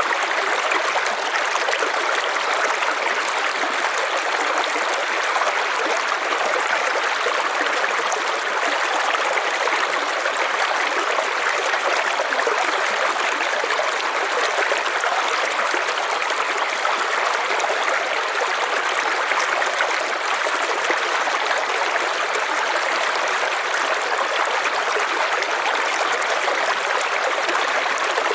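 River water flowing in a steady, even rush with no breaks or surges.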